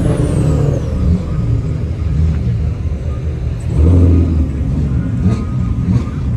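Car engines running loudly, with a rev that swells about four seconds in.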